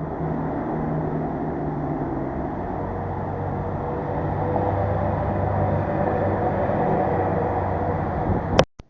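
Motorcycle on the move: a steady engine hum under a wash of wind and road noise, swelling a little past the middle, then cut off by a sharp click near the end.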